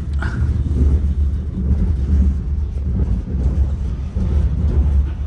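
Steady, pulsing low rumble of a moving passenger train heard from inside a sleeping-car corridor, with a brief squeak just after the start.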